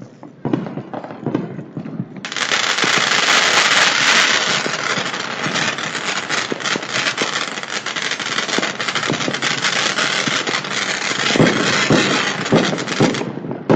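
Commercial fireworks going off: a few scattered pops, then about two seconds in a sudden dense crackling and hissing that runs for about eleven seconds before cutting off, with a few louder bangs near the end.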